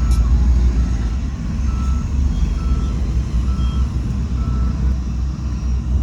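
Reversing alarm on heavy earthmoving machinery beeping about once a second, six beeps that stop about five seconds in, over the steady low rumble of a large diesel engine.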